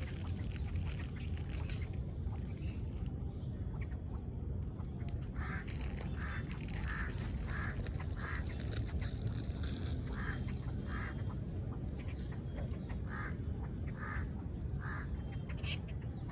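Ducks quacking in short runs of repeated quacks, over a steady low rumble.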